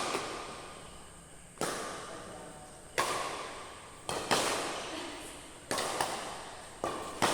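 A series of sharp impacts, roughly one every second or so with a couple in quick pairs, each ringing out in a long echo as in a large hall.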